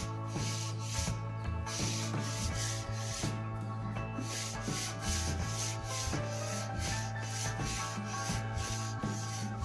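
Sandpaper rubbing on a wooden snooker cue shaft in quick back-and-forth strokes, a few strokes a second.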